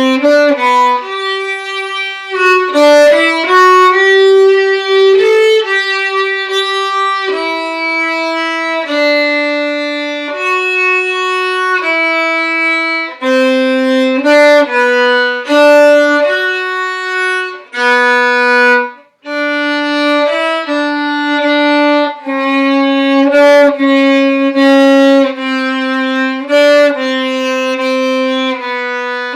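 A solo violin bowing a melody line of held notes, one after another, with a brief break about two-thirds of the way through.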